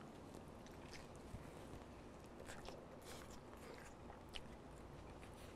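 Faint chewing of a mouthful of beef burrito, with small mouth clicks and soft crackles scattered through.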